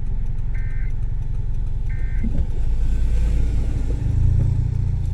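Honda CR-V running with its resonator and muffler deleted: a loud, deep exhaust rumble that swells about four seconds in. A short electronic beep sounds twice, about a second and a half apart.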